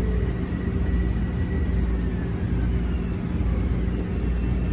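Steady low rumble and hum of an electric commuter train, with a faint whine sliding down in pitch around the middle.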